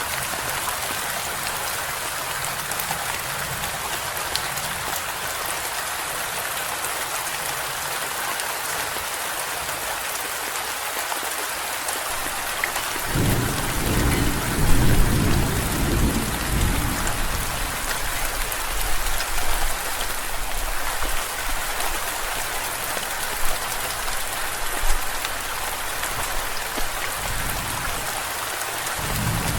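Steady heavy rain, with a roll of thunder rumbling about halfway through that fades over a few seconds.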